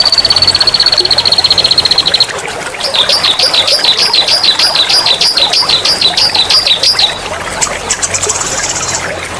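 Songbirds singing loud rolling songs over trickling water: a fast, very rapid trill for about two seconds, then a run of high slurred whistles repeated about four times a second, then a short, very high buzzy trill near the end.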